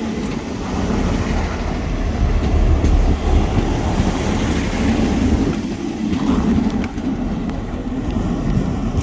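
Train running past on the line: a loud, steady rumble of engine and wheels on the rails.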